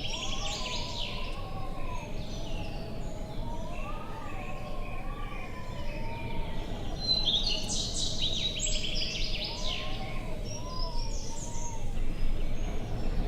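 Small birds chirping in two quick flurries, one at the start and one about seven seconds in, over a steady low wind-like rumble. A faint tone wavers slowly up and down underneath the whole time.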